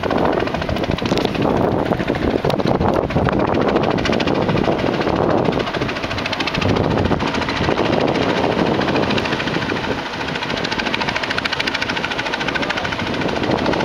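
Helicopter flying low overhead, its rotor blades beating in a rapid, even rhythm over the steady engine noise.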